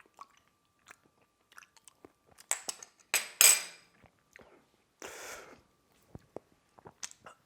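Wet mouth sounds of someone licking up mixed hot sauce: smacks, slurps and lip clicks, loudest in a cluster about two and a half to four seconds in, then a breath about five seconds in.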